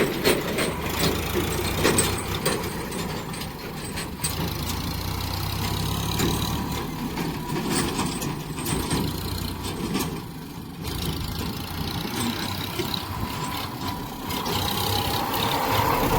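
Tractor engine running steadily, with a low hum and rattling.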